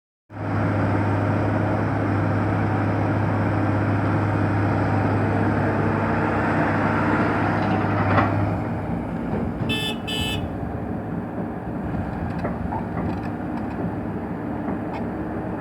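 Heavy diesel machine engine running steadily with a strong low hum, which eases off about eight and a half seconds in. Two short horn toots sound about ten seconds in.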